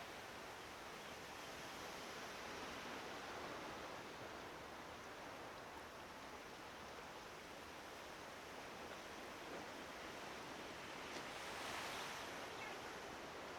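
Waves washing steadily on a reservoir shore, with a slightly louder swell near the end.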